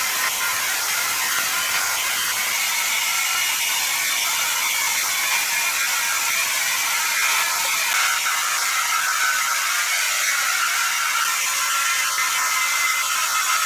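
Sawmill machinery running: a steady, high-pitched mechanical noise with a few faint held tones and scattered light clicks.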